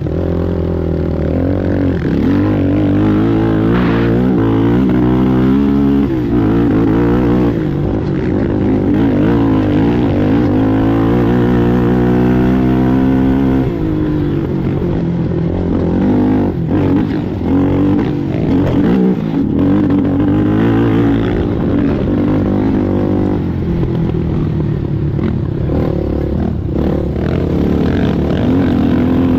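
ATV engine running hard in a race, its revs rising and falling again and again with throttle and gear changes. Near the middle it holds a long climbing pull, then drops off sharply.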